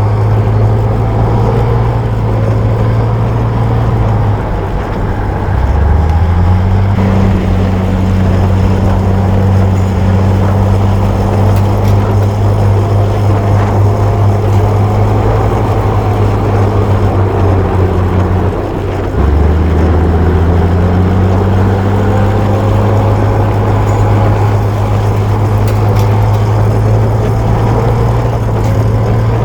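Bulldozer's diesel engine running under load with a steady low drone. Its pitch dips twice, about four seconds in and again near the middle, then climbs back up each time.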